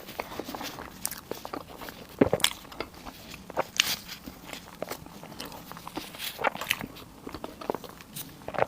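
Eating sounds: irregular crunchy bites and chewing, with a sharper crunch about two seconds in.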